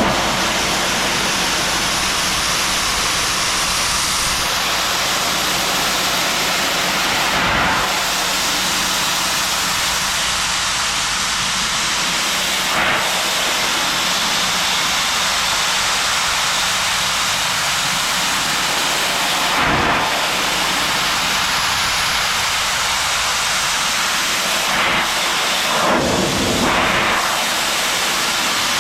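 Pressure washer jet spraying stone paving: a loud steady hiss of water with a steady low hum beneath it, the spray changing briefly a few times.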